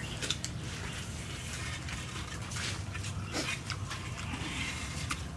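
Close-up eating sounds: crunchy chewing and wet mouth clicks in many short crackly bursts, over a steady low hum.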